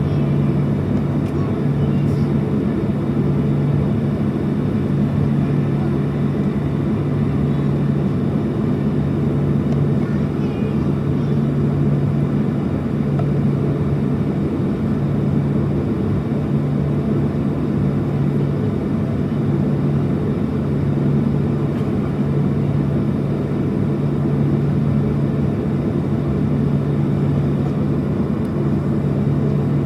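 Steady drone of a Boeing 737-700's CFM56-7B turbofan engines at low power, heard from inside the passenger cabin: an even low rumble with a constant hum, no change in pitch or level.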